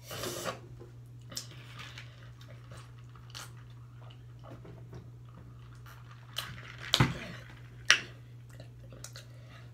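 A person chewing crunchy spicy chips, with scattered sharp crunches, the loudest near the end, over a steady low hum.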